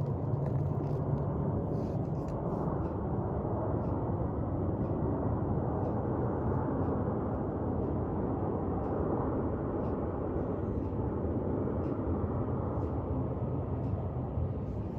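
Jet airliner on landing approach passing by, a steady low engine rumble that swells slightly and eases off.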